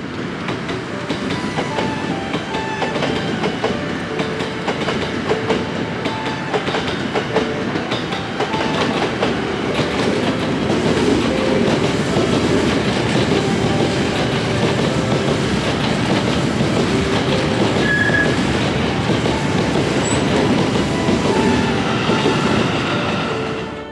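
Hankyu Railway electric train running on the line, with a steady rumble and wheels clattering over rail joints, getting a little louder about halfway through.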